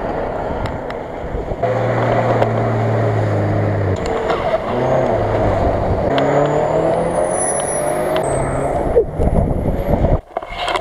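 Subaru Forester engines running at high revs as the cars drive through deep mud, the engine note holding and then shifting up and down in pitch. The sound changes abruptly about a second and a half in.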